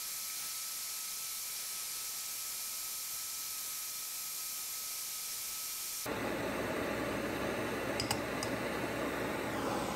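Small gas torch hissing steadily as it heats a steel bolt. About six seconds in, the sound switches abruptly to a louder, fuller hiss with two light clicks as the hot bolt goes into a jar of oil to be blackened.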